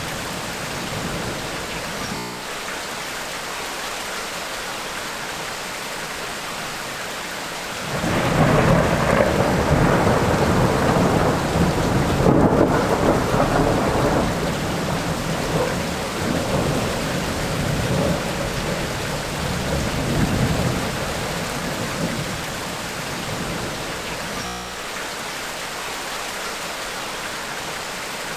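Steady rain with a long roll of thunder that sets in suddenly about a third of the way in, rumbling unevenly for some fourteen seconds before dying back under the rain.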